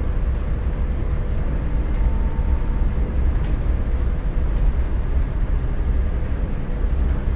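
A boat running steadily under way, a continuous low rumble of engine and motion.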